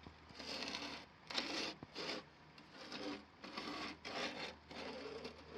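Something rubbed or scrubbed back and forth against a surface: about six separate strokes, each roughly half a second long.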